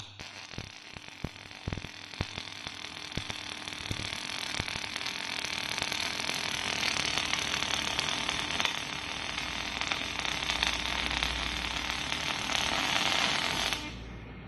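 Factory machinery working on water-heater inner tanks: a few sharp clicks and knocks, then a loud, dense hiss that builds over several seconds and cuts off suddenly near the end.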